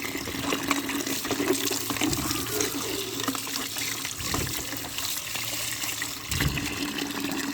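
Running water from a tap splashing over plastic toy vehicles as they are washed, with small plastic clicks and knocks, over a steady low hum.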